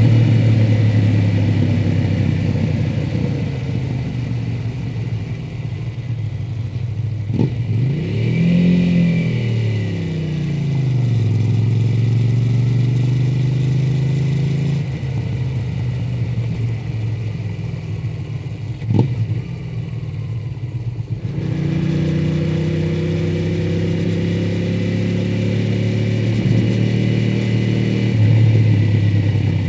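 Honda VTR250's 250 cc 90-degree V-twin running through its stock exhaust while riding: a steady cruising note, with the revs rising and then falling once about a third of the way in. Two short sharp clicks, one about seven seconds in and one near the middle.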